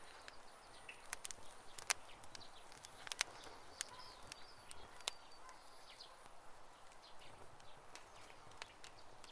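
Campfire crackling: burning wood giving a scatter of small snaps and pops, with two sharper pops about two and three seconds in.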